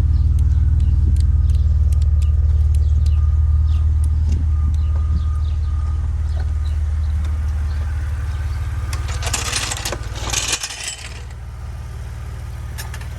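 Saab 9-3's replacement 2.8-litre V6, just swapped in, idling steadily. A brief rush of noise comes about nine seconds in, after which the engine sounds a little quieter.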